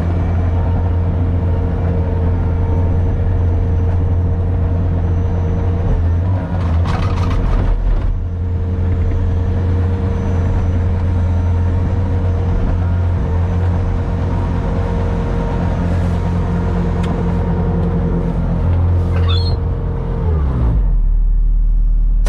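Vehicle engine running steadily with a constant whine over its hum; near the end the pitch falls away and the sound changes to a deeper, lower rumble.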